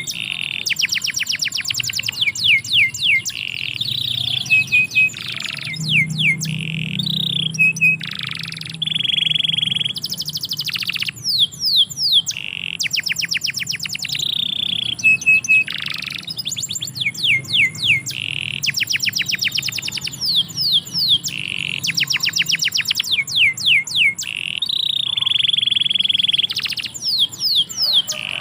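Domestic canary singing a long, continuous song: fast runs of repeated downward-sweeping notes alternate with held high whistled notes.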